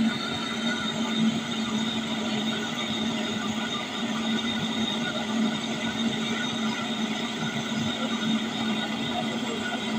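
Steady mechanical hum: a constant low drone with a faint high whine over it, unchanging throughout.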